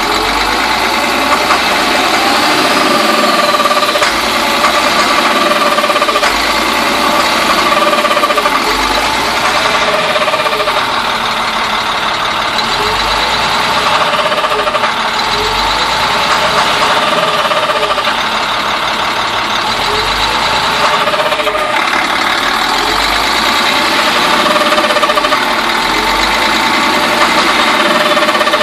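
International DT466E inline-six diesel engine running with an awful noise, a pitched tone that dips and rises again every two to three seconds over the steady engine sound. The owner suspects a high-pressure oil pump (HPOP) problem.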